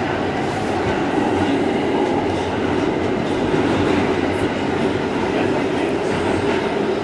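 New York City Subway G train running between stations, heard from inside the car: a steady noise of the train in motion on the track.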